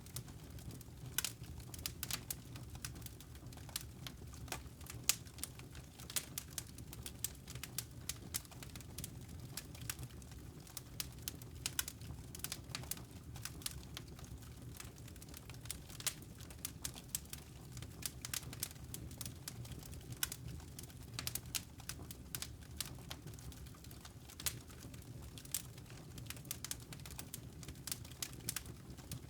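Wood fire crackling in a fireplace: irregular sharp pops and snaps, several a second and unevenly spaced, over a steady low rumble.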